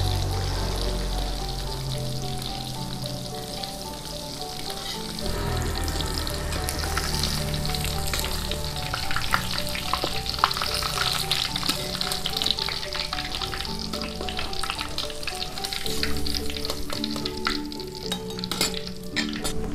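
Tofu deep-frying in hot oil in a steel wok, sizzling, growing louder from about five seconds in. A metal slotted spatula clicks and scrapes against the wok as the pieces are turned and lifted out.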